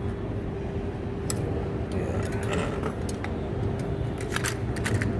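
Metallic clinks and rattles as a bicycle's suspension fork is slid out of the head tube, with a cluster of sharp clicks near the end, over a steady low hum.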